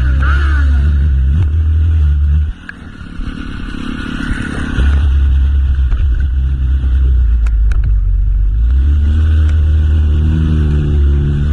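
Motorcycle engine running while riding, a loud, steady low rumble. About two and a half seconds in it drops away sharply and builds back up over a couple of seconds, then runs steadily again.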